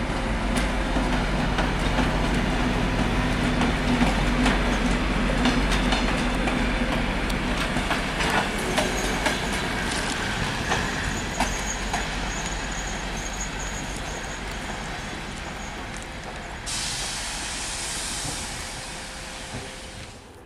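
TEP70BS diesel-electric passenger locomotive running past with its diesel engine droning, then a railway carriage rolling by, its wheels clicking over rail joints with a thin high wheel squeal. The sound fades as it goes, and a steady hiss starts suddenly near the end.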